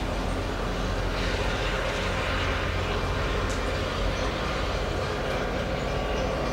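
Diesel train running by with a steady engine drone.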